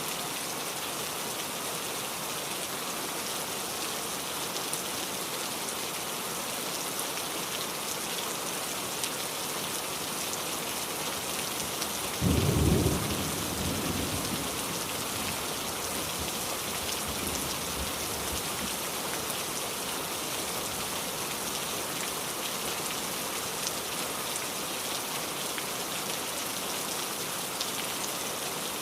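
Steady heavy rain, with a single thunderclap about twelve seconds in that dies away over a couple of seconds.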